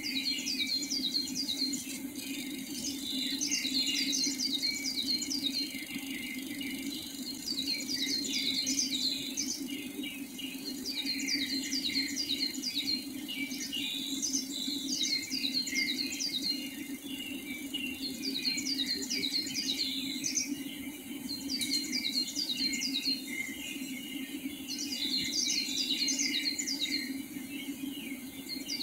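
Bird song: phrases of quick, high, downward-slurred notes, several to a phrase, repeated every few seconds over a steady low drone and a dense chirring background.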